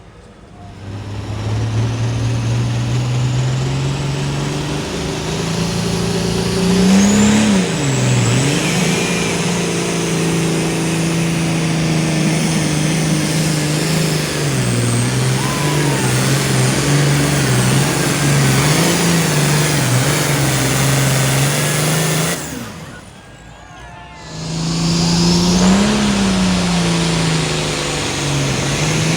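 Pulling vehicle's engine running loud at high revs, its pitch holding, then rising and dipping several times as the revs change. The sound falls away suddenly for about a second and a half near the end, then the engine comes back with another rise and fall in pitch.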